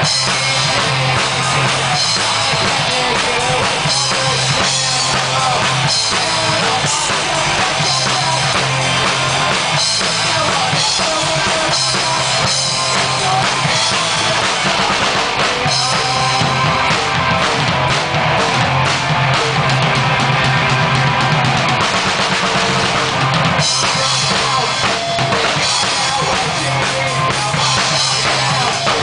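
A rock band playing live, with the drum kit prominent: kick drum, snare and cymbals over a steady low bass line.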